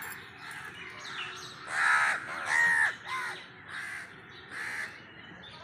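A bird calling repeatedly outdoors: about six short, harsh calls, the two loudest close together about two seconds in.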